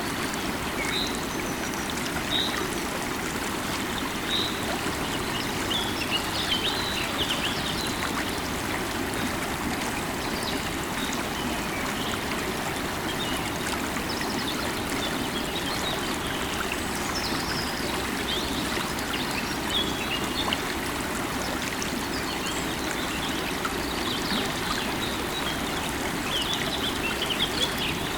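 River water running steadily, with birds chirping over it: three short single notes in the first few seconds, then scattered bouts of chirping, busiest near the end.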